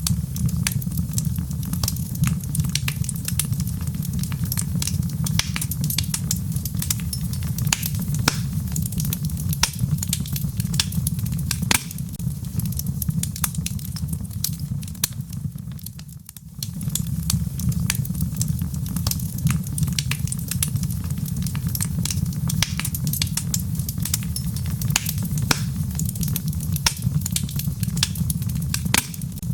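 Wood fire in a fireplace crackling, with many sharp pops and snaps over a steady low rumble of the flames. Just past the halfway point the sound briefly fades and comes back.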